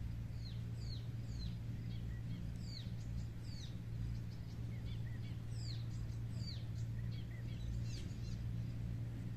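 Birds calling with many short, high chirps that slide downward in pitch, coming in quick groups and stopping near the end, over a steady low hum.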